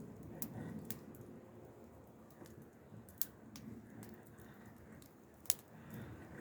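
Wood fire crackling: a low, uneven rustle with a few sharp pops, the loudest two about three and five and a half seconds in.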